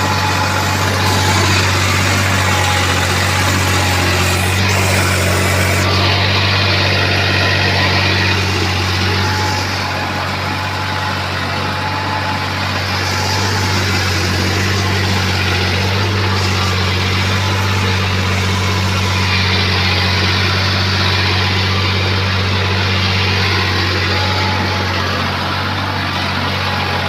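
New Holland 3630 Plus tractor's three-cylinder diesel engine running steadily at an even, unchanging speed.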